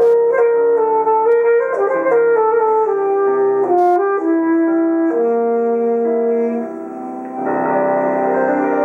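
Alto saxophone and piano playing classical chamber music live: the saxophone holds a melodic line of sustained notes over piano chords. Just before the end the music drops quieter for a moment, then a fuller chord comes in.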